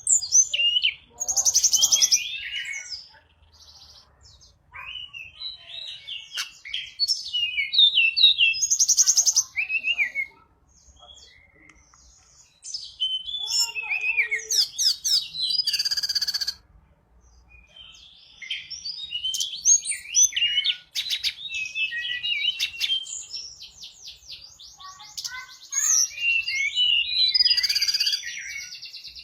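Tledekan gunung singing continuously ('gacor'): bouts of varied high chirps, whistled notes and fast buzzy trills, separated by short pauses.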